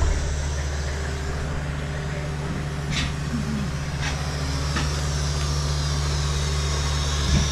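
Nissan 180SX's SR20 four-cylinder engine idling steadily, with a few light clicks around the middle and a rising hiss near the end.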